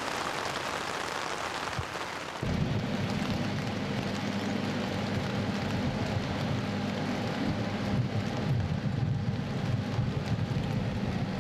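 Steady rain hiss. About two and a half seconds in, the low, steady engine hum of a river cruise ship comes in under the rain.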